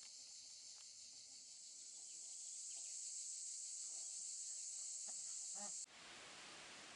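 Faint, steady high-pitched chorus of insects with a few soft short sounds lower down. About six seconds in it cuts off abruptly and a flat, even hiss takes over.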